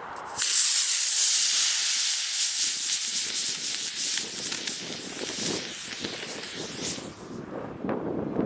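24 mm E-6RC model rocket motor igniting and burning with a loud, steady hiss. It starts suddenly about half a second in and dies away about seven seconds in at burnout, leaving wind rumbling on the microphone.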